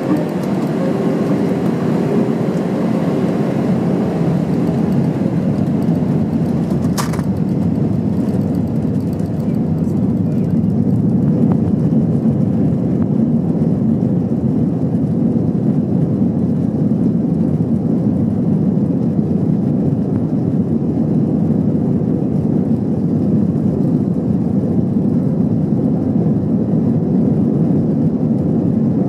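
Airbus A321-200 jet engines and rushing air heard from inside the cabin during takeoff: a steady low rumble that swells slightly about a dozen seconds in. There is a single brief click about seven seconds in.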